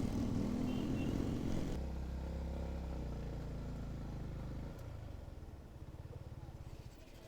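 Motorcycle engine running under way with wind noise, which eases about two seconds in; about five seconds in the engine drops to a quieter, low pulsing run as the bike slows.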